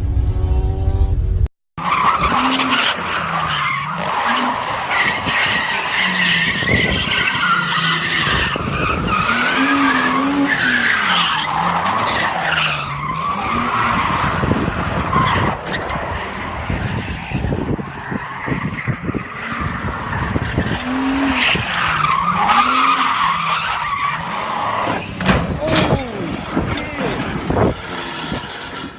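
A car's engine revving up and down repeatedly while its tyres squeal and skid, as in drifting or a burnout. There is a short break about a second and a half in, where one clip cuts to the next.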